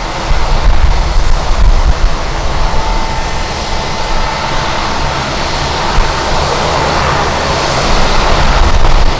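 Jet airliner's engines whining as it passes on landing approach in strong wind, the sound building near the end, over heavy wind buffeting on the microphone.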